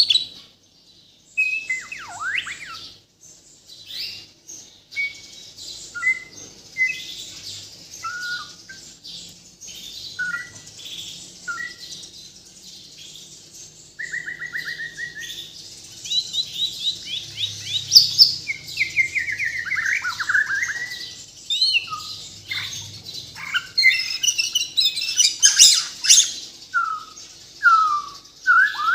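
White-rumped shama (murai batu) of the Bornean type singing a long, varied song of clear whistled notes, pitch slides and short phrases. About halfway through, a quick trill leads into faster, denser runs, and near the end comes a burst of rapid chattering notes. It is the full song with mimicked 'isian' phrases woven in.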